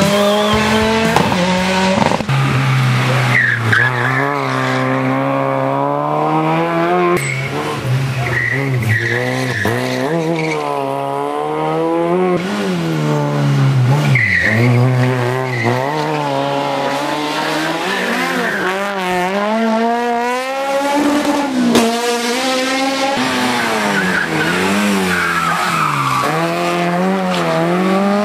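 Rally car engine driven hard on a hill climb, its pitch climbing and falling again and again as it revs up and drops back, with tyres squealing in places.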